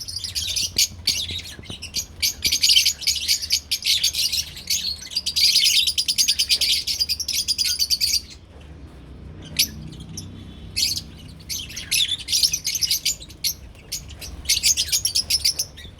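Lovebirds chirping in fast, dense runs of high chirps, easing into a lull about halfway through before starting up again in shorter bursts.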